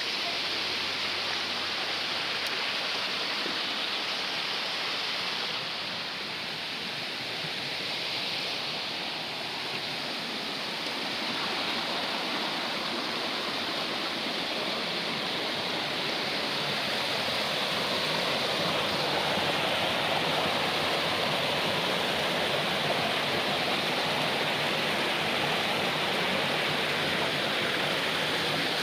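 Steady rush of running water, an even noisy flow that holds without a break.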